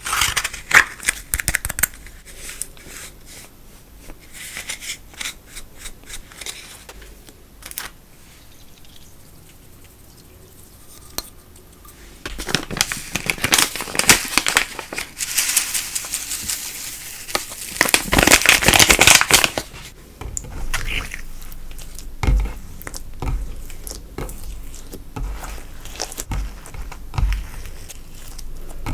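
Slime being worked by hand, giving crinkly, crackling sounds and sharp little pops. A long, loud burst of crinkling comes a little before halfway and lasts several seconds, with softer scattered clicks before and after.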